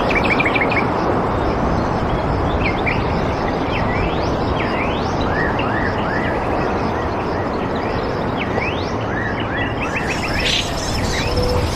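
Birds chirping and calling outdoors: a quick run of chirps at the start, then short rising whistles scattered through, over a steady rushing background noise.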